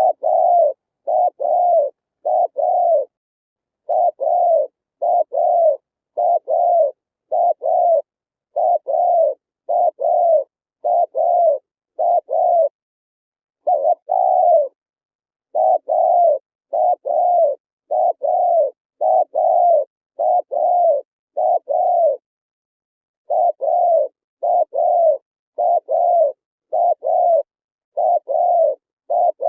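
Spotted dove cooing: a long run of short, repeated coos, one about every half second to second, broken by brief pauses a few times.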